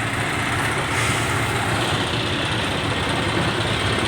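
Heavy diesel engine running steadily, a low, even drone of the machinery at work pulling the stuck tractor.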